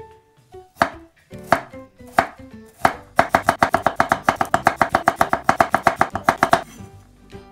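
Chef's knife slicing garlic cloves thinly on a wooden cutting board: four separate cuts in the first three seconds, then a fast, even run of knife strokes on the board at about nine a second that stops suddenly near the end.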